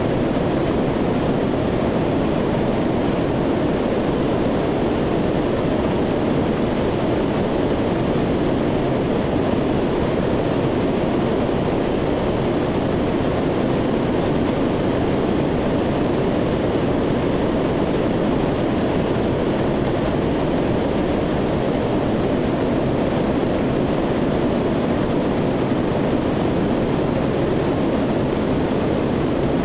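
Steady in-flight noise of a C-130 turboprop aircraft heard from on board: an even drone of engines and airflow that does not change.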